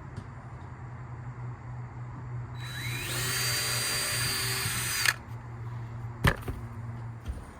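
A power drill spins up with a rising whine, runs steadily for about two seconds, then stops, drilling holes during work on a plywood coop wall. A single sharp knock follows about a second later, over a steady low hum.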